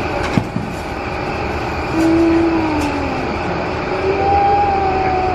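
Steady din of a crowded convention hall: distant voices over a constant background noise, with a short knock about half a second in.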